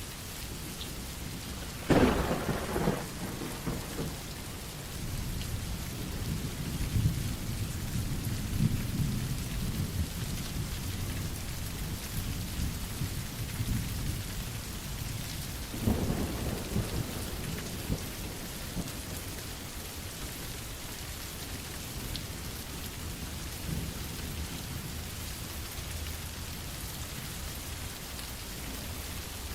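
Steady rain with thunder: a sharp thunderclap about two seconds in, low rolling rumbles for several seconds after it, and a second clap about halfway through.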